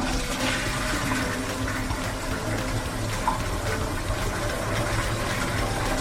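A steady rushing noise with a low hum underneath, starting as music stops.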